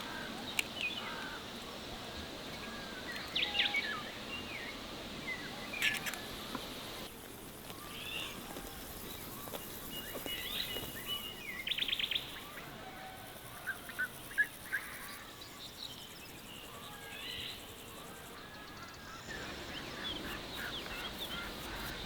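Small birds chirping and trilling at intervals, with a few sharp clicks.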